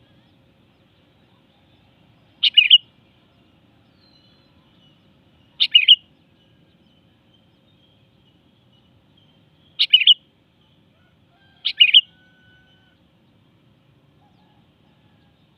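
Sooty-headed bulbul (kutilang) calling: four short, loud bursts of two or three quick notes, a few seconds apart.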